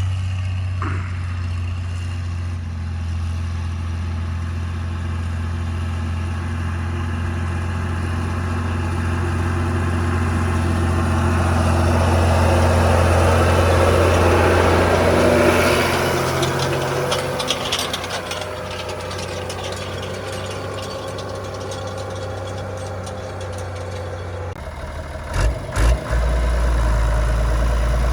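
Ford 8210 tractor's six-cylinder diesel engine running steadily under load, growing louder with added noise around the middle, then changing in tone near the end with two brief knocks.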